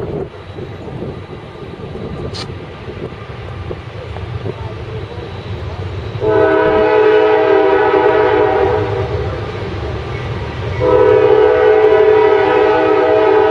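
Diesel freight locomotive's multi-chime air horn sounding two long blasts, about a second apart, over the low rumble of the train's engines.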